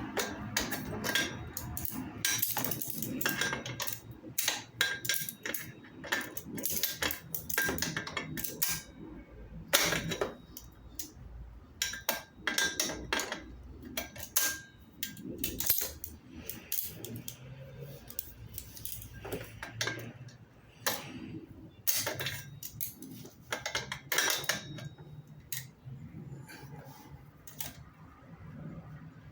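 Irregular metallic clinks and clicks, as from metal hand tools and parts being handled and knocked together, with uneven gaps of a fraction of a second to a second or two between them.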